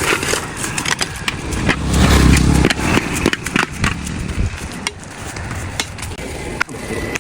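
Hand tools scraping and knocking on a road surface during road repair, with many sharp clicks and a low rumble about two seconds in.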